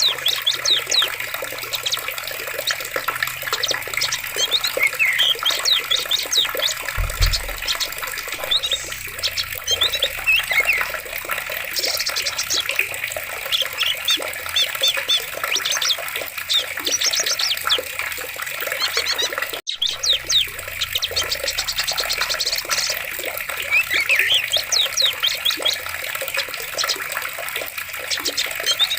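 Running water, like a forest stream, with birds chirping and calling throughout in many short high notes. A brief low thump comes about seven seconds in.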